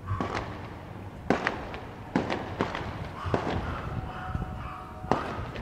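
Fireworks shells bursting: a string of about seven sharp, irregularly spaced bangs, the loudest about a second in and again near the end.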